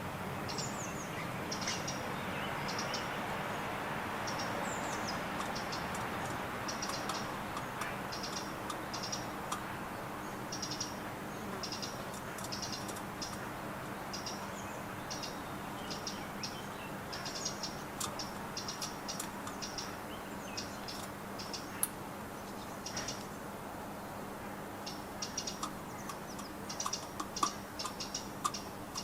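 Small birds giving short, high chirps again and again, with scattered sharp clicks in the second half, over a steady background hiss.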